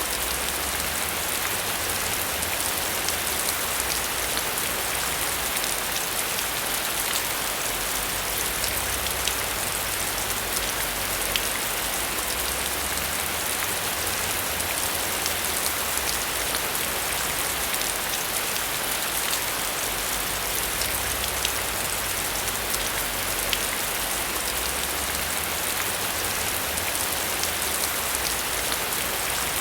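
Steady heavy rain: a dense, even hiss of falling rain with many small drop ticks, over a low rumble that swells and fades slowly.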